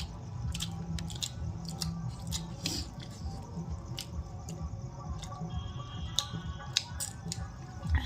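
Scattered sharp clicks and taps of people eating, with faint chewing, over background music.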